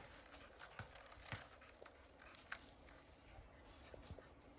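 Faint, scattered wet clicks and small taps of a dog licking and mouthing a skateboard.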